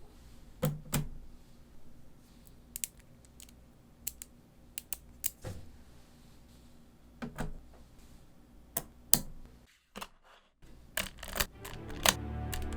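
Small neodymium magnetic balls clicking and snapping together in irregular single clicks as they are placed, with a brief pause about ten seconds in. Music comes in near the end.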